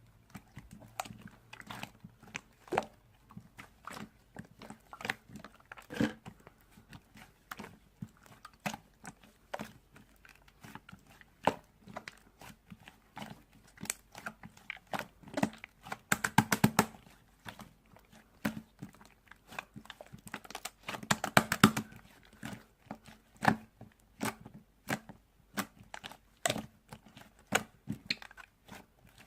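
Crunchy chewing and biting: irregular crisp crunches throughout, with two spells of fast, dense crunching about halfway through and again about three quarters through.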